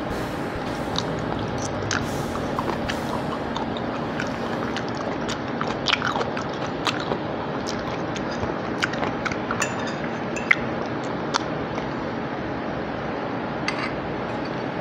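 Close-miked chewing of soft fried cabbage, with sharp clicks of a metal fork against a ceramic plate and a glass dipping bowl, clustered in the middle and loudest near the end of that stretch, over steady background noise.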